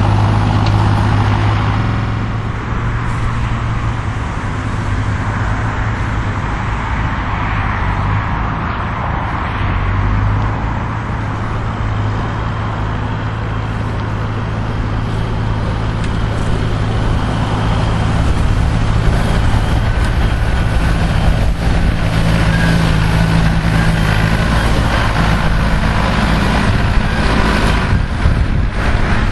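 Same Silver 110 tractor's diesel engine running steadily under load while pulling a four-furrow plough, at a steady pitch. It grows somewhat louder in the second half.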